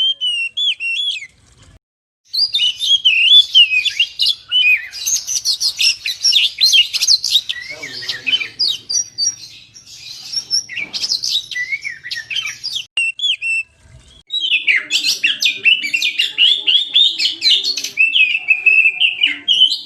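Oriental magpie-robin (kacer) singing a fast, varied run of whistles and chirps. The song breaks off briefly about two seconds in and again around fourteen seconds in.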